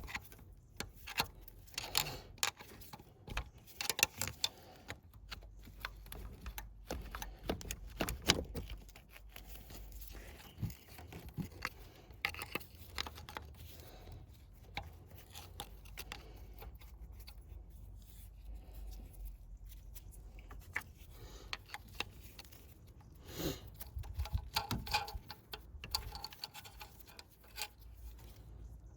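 Metal hand tools clicking and clinking irregularly against each other and the engine parts, with the ticking of a ratchet being worked.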